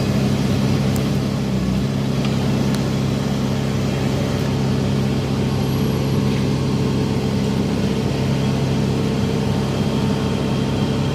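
A heavy engine running steadily at a constant speed, with a deep even hum that neither rises nor falls.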